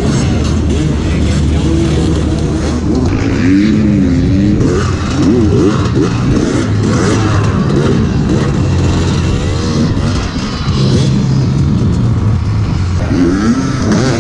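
Hard enduro dirt bike engines revving hard, the pitch rising and falling over and over as the throttle is worked.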